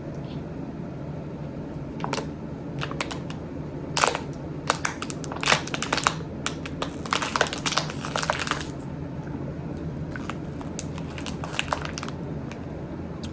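Close-up crinkling and crackling from handling crispy chicken nuggets and their packaging, a run of irregular sharp crackles that is thickest in the middle, over a steady low hum.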